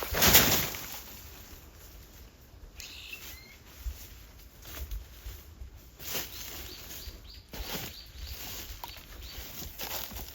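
Outdoor ambience with a loud, brief rush of noise in the first second, then a few faint bird chirps and scattered light knocks.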